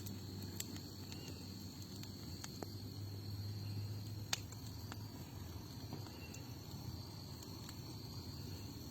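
Bonfire burning: a low rumble of flames with scattered sharp crackles and pops, one louder pop a little before the middle, over a steady high thin tone like insects chirring.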